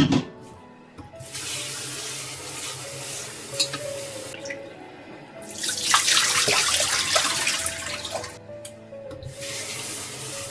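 Kitchen tap running into a sink, turned off and on again twice, the loudest run about halfway through. Soft background music plays underneath.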